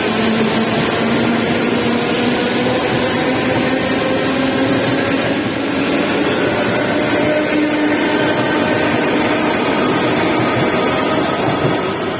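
Electric train running, with a loud steady rumble and a motor whine that slowly rises in pitch as it gathers speed.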